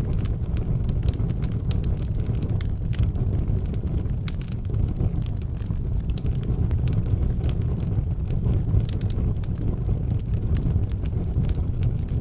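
Fire burning in an outdoor fireplace, crackling and popping with many sharp snaps over a steady low rumble.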